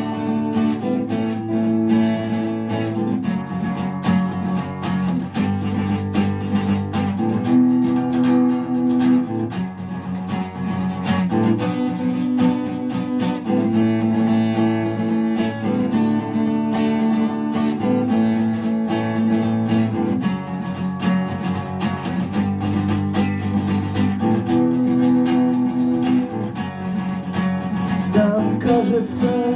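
Acoustic guitar strumming a repeating chord progression, the chords changing every two seconds or so, as the instrumental introduction to a song.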